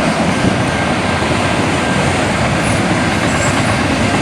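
A train passing at close range: a loud, steady rumble and rush of the rolling train on the rails.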